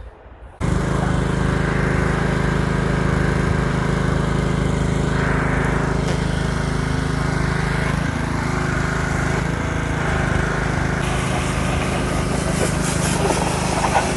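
An engine running steadily at a constant speed, starting suddenly about half a second in.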